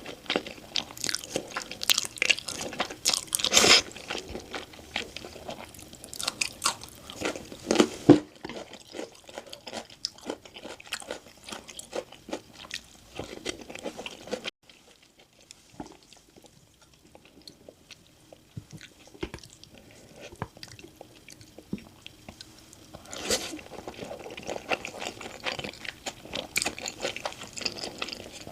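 Close-miked crunching and chewing of crispy glazed Korean fried chicken (dakgangjeong). Dense crisp bites for the first several seconds give way to softer chewing and a quiet stretch in the middle, and the crunching starts again near the end.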